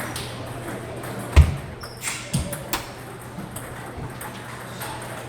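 Table tennis ball knocks, the ball clicking sharply off bat and table, with a heavier low thump about a second and a half in, the loudest sound, and a quick run of knocks about a second later.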